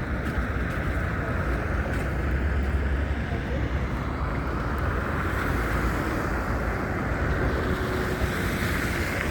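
Wind buffeting a handheld phone's microphone in a snowstorm, a steady low rumble and hiss, with city street noise behind it.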